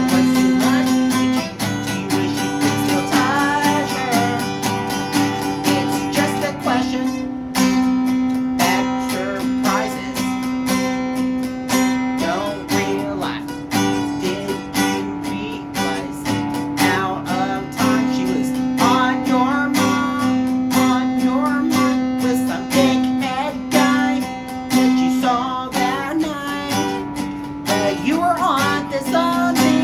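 Acoustic guitar strummed steadily, with a sung melody over it.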